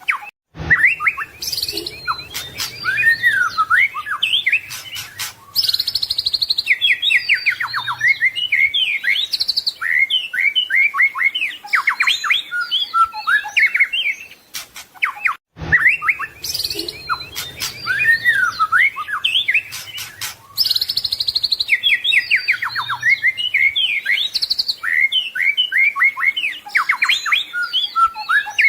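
White-rumped shama (murai batu) singing a continuous, varied song of rapid whistles, trills and chattering phrases packed with mimicry. The same stretch of song, about 15 seconds long, plays twice.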